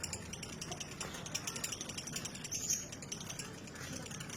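Female lovebird giving a rapid, chattering trill of fast repeated clicks that runs on without a break, the long-duration 'ngekek' song prized in fighter-type hens. It is brighter briefly near the end.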